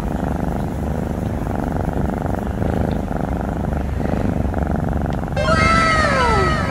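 An orange tabby cat purring steadily while its belly is rubbed: a low, rapid, even rumble. About five seconds in, a set of falling tones sounds over the purr.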